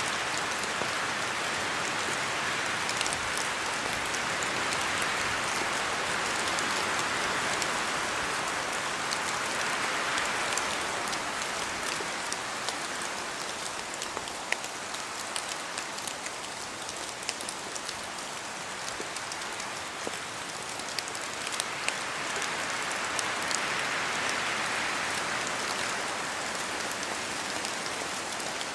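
Steady rain falling on forest foliage, a dense hiss that swells and eases a few times, with many separate drops ticking sharply throughout.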